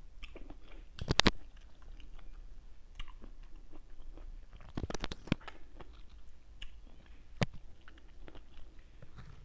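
A person eating ripe mango slices close to the microphone: wet chewing and biting, with sharp mouth clicks about a second in, around five seconds and again near seven and a half seconds.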